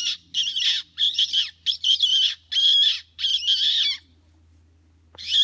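A person making loud, raspy squeaking bird calls with the mouth to lure birds. There is a quick run of squeaks for about four seconds, then a pause and one more squeak near the end.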